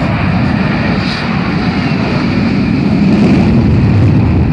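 Twin jet engines of an F/A-18 Hornet at takeoff power: a loud, steady roar that grows a little louder about three seconds in.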